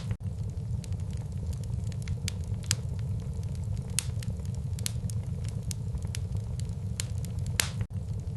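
Wood fire burning in a fireplace: irregular sharp crackles and pops over a steady low rumble of the flames. The sound drops out for an instant twice, just after the start and near the end.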